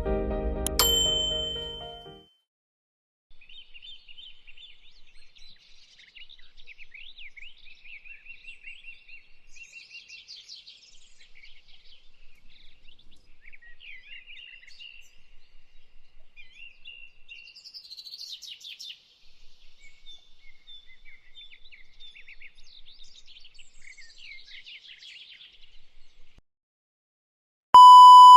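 Guitar music fading out, then many small birds chirping and singing continuously with quick, high calls. Near the end comes a loud, short electronic ding.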